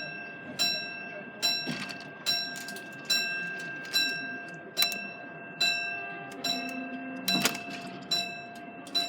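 Level crossing warning alarm ringing as a bell, one even strike about every 0.8 seconds, each ring fading before the next.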